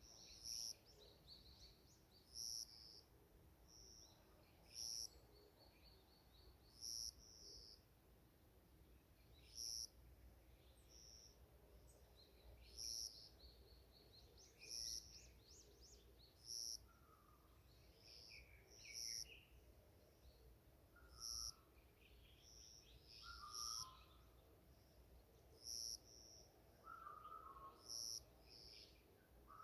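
Forest birds singing: one bird repeats a short, high note about every two seconds, while others add soft trills and chirps in between, with lower notes in the second half.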